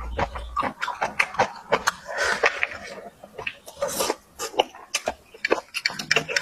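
Close-miked eating: irregular chewing, lip smacks and mouth clicks, many small crackles in quick succession.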